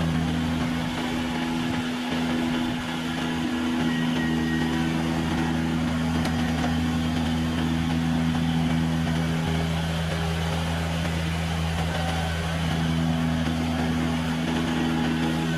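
Kubota compact tractor's diesel engine running at a steady speed, an even hum that barely changes, with a slight dip around three seconds in.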